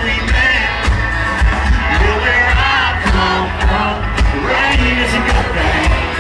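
Live country band playing loud through a concert sound system, with heavy pulsing bass, wavering singing and crowd noise.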